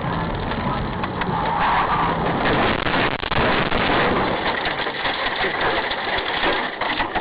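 Steady vehicle noise of engine and road rumble in a car, with a few short knocks.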